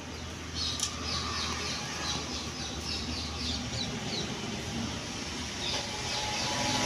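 Small birds chirping: a quick run of short, high, slightly falling chirps, about four a second, that stops after about four seconds. A steady low hum runs underneath.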